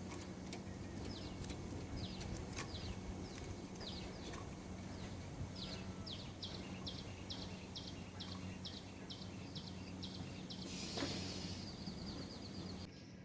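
A small bird calling: short, high, downward-slurred notes, scattered at first, then a quick even series of about four a second from about six seconds in, stopping near the end after a brief rustle. A faint steady low hum lies underneath.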